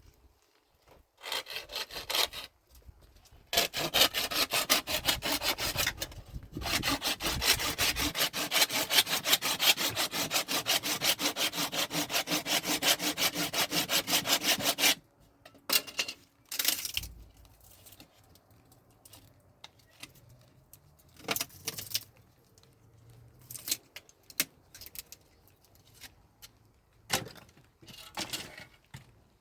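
Fast, even back-and-forth rasping strokes, like sawing or rubbing, for about eleven seconds, broken by a short pause near the start. Then scattered short scrapes and rustles.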